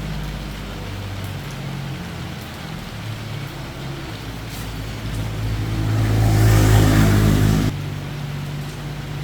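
A motor humming steadily, then a louder motor sound that builds up over about two seconds and cuts off suddenly near the end.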